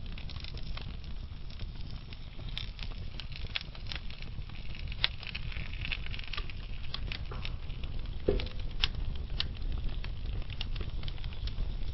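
Wood fire of burning logs crackling: a steady low rumble with scattered sharp snaps and pops throughout, and one louder pop a little past two-thirds of the way through.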